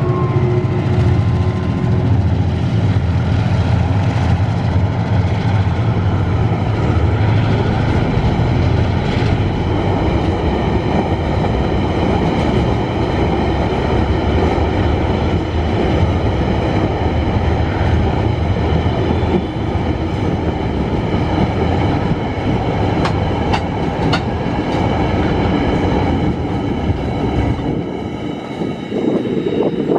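Empty ore train rolling past close by, a continuous rattle and clatter of wagon wheels on the rails. A heavy low rumble from the diesel locomotives is strongest in the first part and eases later.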